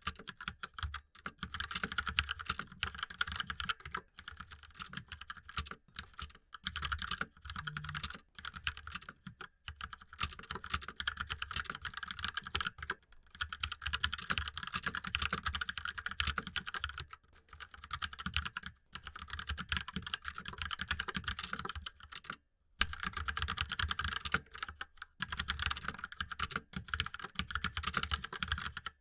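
Fast, continuous typing on a computer keyboard. Laptop keys are heard for the first few seconds, then a mechanical keyboard for the rest, with one brief pause late on.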